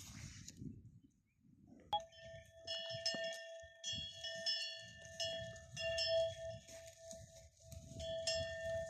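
A metal animal bell clanking over and over, each strike ringing on, starting about two seconds in, over low rumbling noise.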